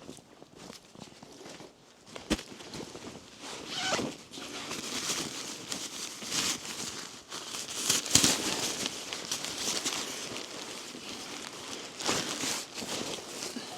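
Irregular rustling and crunching scuffs of someone moving about and handling things in snow, with a sharp click about two seconds in.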